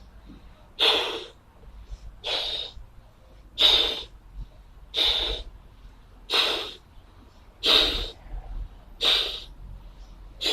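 A person blowing up a balloon by mouth: hard, airy breaths into the balloon, seven of them at an even pace, about one every second and a half.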